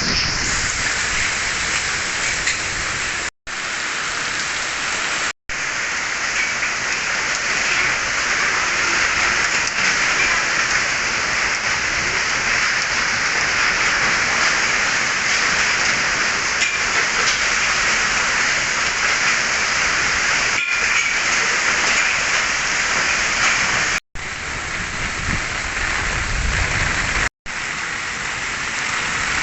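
Heavy rain pouring down hard and steadily, broken by a few abrupt momentary gaps, with a low rumble near the end.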